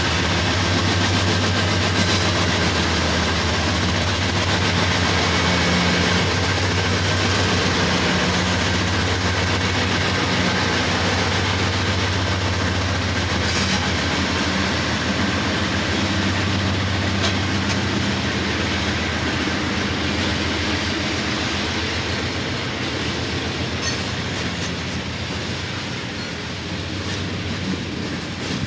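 Norfolk Southern freight train passing steadily, growing slightly quieter near the end.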